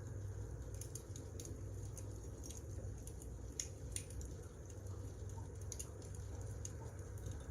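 Wood fire crackling: irregular sharp pops and ticks over a low, steady rumble.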